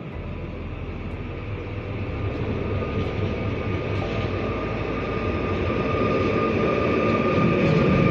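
PESA Elf electric multiple unit arriving along the platform, its rumble growing steadily louder as it comes closer. A steady whine comes in about three seconds in.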